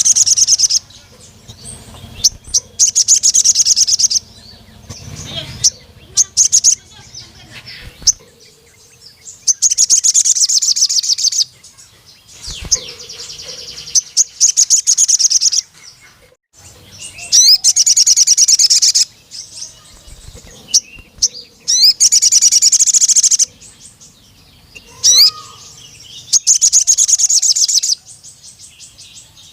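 Male sogon (crimson sunbird) singing: loud bursts of rapid, high-pitched trilling, each a second or two long, repeated with short pauses between them. This is the 'cuit cuit' calling and long trilled song a male uses to challenge a rival male.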